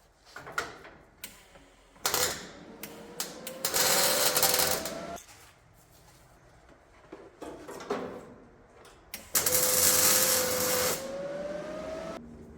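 Sheet metal being cut with a power cutting tool in two passes after a few sharp clicks. Each pass is a loud hiss over a steady whine that rises in pitch near its end.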